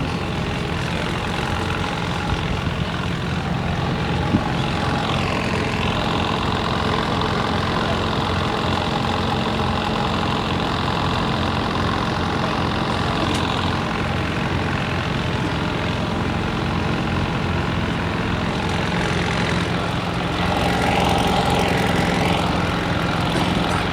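Heavy engine idling steadily, an even low rumble that grows a little louder near the end.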